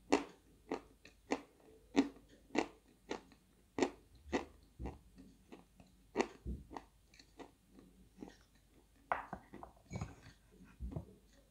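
Dry White Velour eating chalk being bitten and chewed close to the microphone. Sharp crunches come in a steady rhythm about every half second to two-thirds of a second, becoming sparser in the last few seconds.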